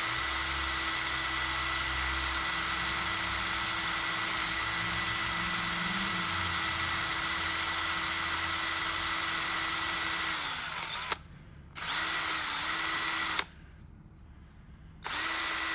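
Small high-speed electric rotary tool running steadily with a constant whine. About ten seconds in it is switched off and its pitch sags as it winds down; it runs again briefly at a lower speed, stops, and starts up once more near the end.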